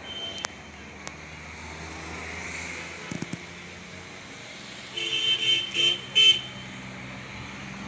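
Road traffic with an engine running steadily, and a car horn honking about four short times in quick succession about five seconds in.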